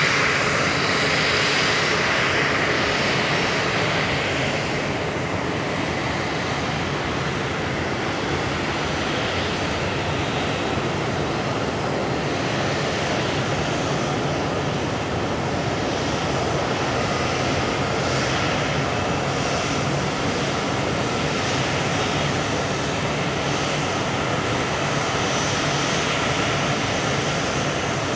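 Boeing 777-200's Pratt & Whitney PW4074 jet engines running, a steady rush of engine noise with faint whining tones, a little stronger in the first few seconds.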